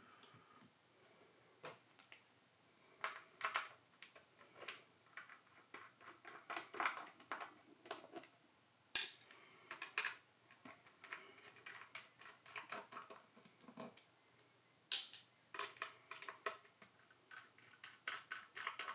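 Scattered small clicks, taps and light rattles of camera parts and tools being handled during disassembly of an Arri Alexa camera, with two sharper clicks about nine and fifteen seconds in.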